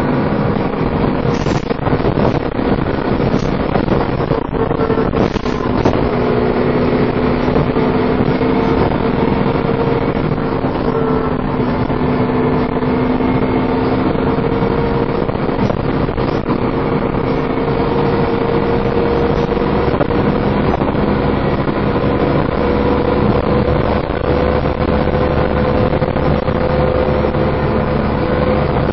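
Dennis Trident 2 double-decker bus under way and driven hard, its engine and driveline giving a steady whine, the 'hoovering' sound, over a loud drone, with a few brief rattles in the first several seconds.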